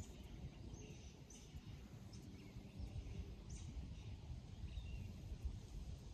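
Outdoor ambience: wild birds chirping, several short high calls that drop in pitch, over a low wind rumble on the microphone.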